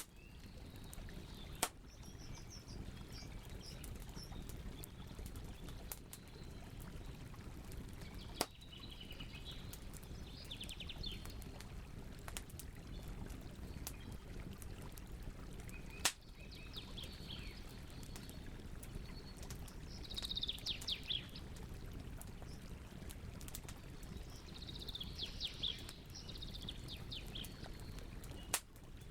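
Wood fire crackling over a steady low rush, with four sharp loud pops spread through it. Birds sing short trilling phrases several times.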